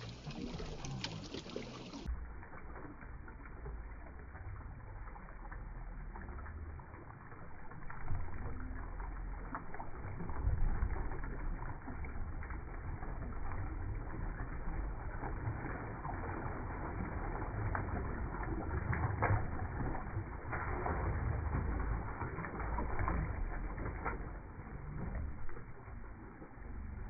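Sea waves breaking and washing onto a beach: a steady rushing noise with a heavy low rumble, swelling louder several times as waves come in.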